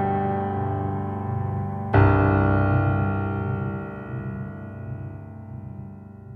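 Background piano music: a sustained chord, a new chord struck about two seconds in, then dying away slowly.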